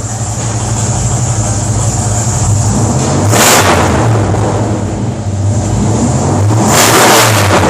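1967 Dodge A-100's freshly rebuilt 318 V8 running on its first start through handmade 3-inch side-pipe exhaust. It idles steadily, with two blips of the throttle, one about three seconds in and one near the end.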